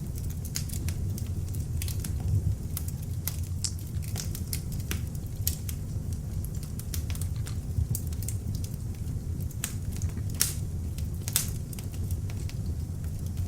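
Beech-wood log fire burning in an open fireplace: a steady low rumble of flames with frequent irregular crackles and pops, two sharper pops about two-thirds of the way through.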